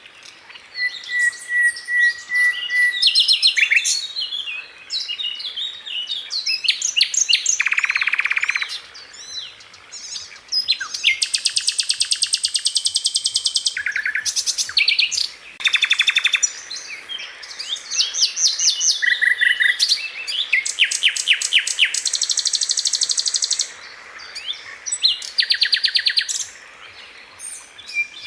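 Sikatan Londo flycatcher singing a fast, varied song. It strings together rapid high trills and quick runs of repeated notes, with a few short held whistles between phrases and brief pauses.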